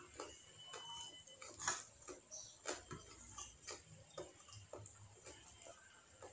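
Close-miked eating sounds: chewing and mouth noises as a stream of irregular small clicks, the loudest about a second and a half in.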